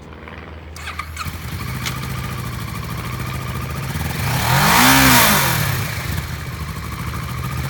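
2017 Kawasaki Versys 650 LT's liquid-cooled twin-cylinder engine starting about a second in and settling into an idle, then revved once about five seconds in, rising and falling back to idle.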